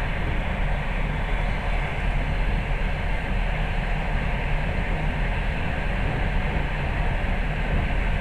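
A passenger train running steadily, heard from inside the carriage: an even rumble with hiss and no distinct rail-joint clicks.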